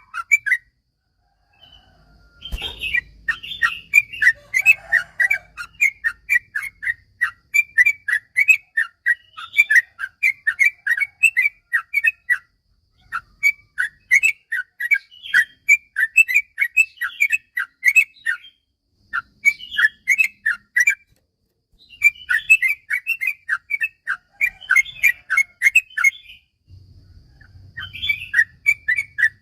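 Yellow-vented bulbul singing a long, fast chattering song: rapid runs of short whistled notes lasting several seconds each, with brief pauses between runs.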